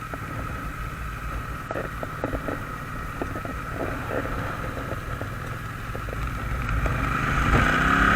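A vehicle engine running steadily with wind noise, growing louder, with a few light knocks; music fades in near the end.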